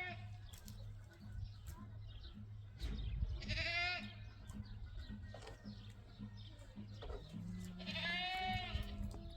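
Livestock bleating: two long calls with a wavering pitch, about four seconds apart, over a steady low hum.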